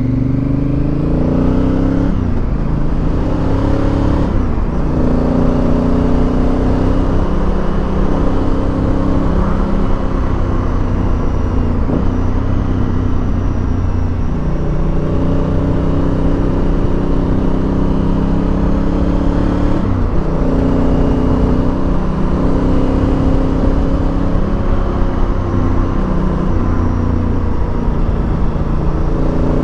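Motorcycle engine running on the road, its pitch climbing with the revs and then dropping at several gear changes, with steady cruising stretches between.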